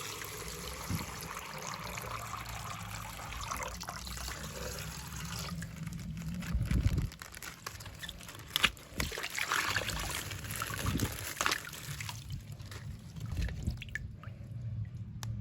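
Water trickling and dribbling out of a punctured plastic ice-pack bag, with scattered clicks and handling noises.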